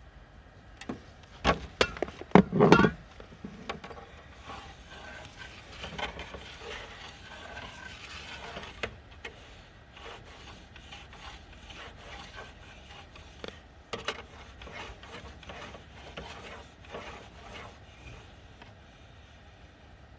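Hands working on the mechanism of a vintage Ricoh Synchrofax card recorder: a quick cluster of sharp knocks and clicks a couple of seconds in, then scraping, rubbing and scattered small clicks of parts being handled.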